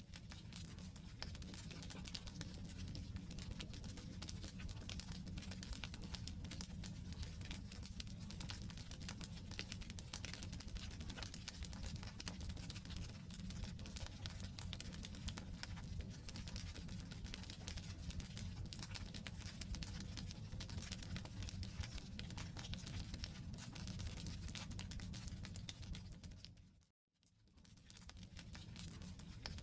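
Wood campfire burning, with dense crackling and popping over a low steady rumble. The sound cuts out for a moment near the end, then fades back in.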